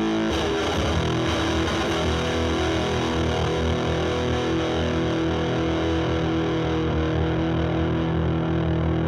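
Electric guitar (Stratocaster) through a Boss DS-2 Turbo Distortion pedal, turbo mode off, into a Marshall Valvestate amp's drive channel: a distorted chord struck about a third of a second in and left ringing with long, steady sustain.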